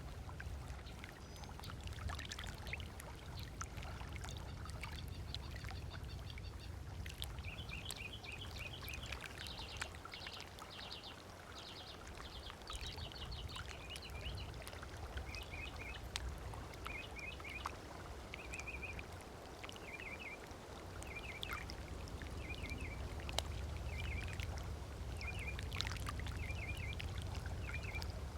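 Small waves lapping on a sandy lakeshore with low rumble and scattered small splashes, while birds call with rapid repeated chirps from about a quarter of the way in.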